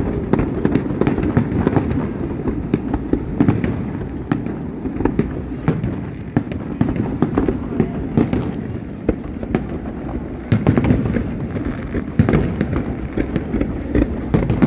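Fireworks going off in a dense, continuous barrage of sharp bangs and crackles, with a brief hiss about two-thirds of the way through.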